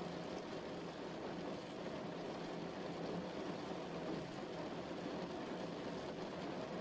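Steady rainfall, an even wash of rain noise with its weight in the low and middle range.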